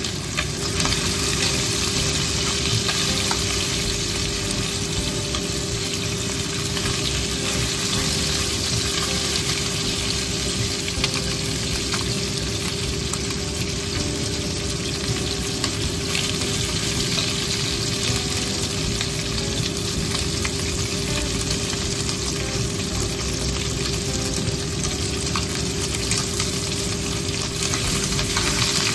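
Chicken livers sizzling steadily as they fry in a nonstick pan, with occasional light clicks as wooden chopsticks and then a silicone spatula stir and turn them.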